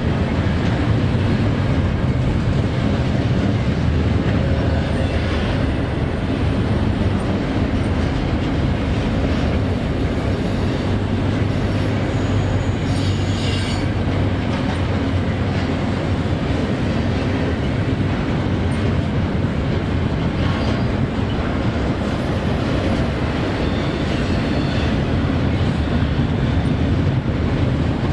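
Intermodal freight train cars rolling past steadily on the rails, with a brief high-pitched wheel squeal about 13 seconds in.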